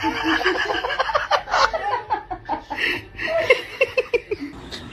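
People laughing in short repeated bursts.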